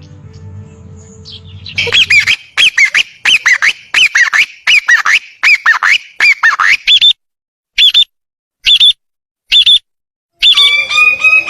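A bird calling loudly in a fast series of harsh calls, about two or three a second, starting about two seconds in. The calls then slow to a few spaced single calls, and a different, more drawn-out call begins near the end.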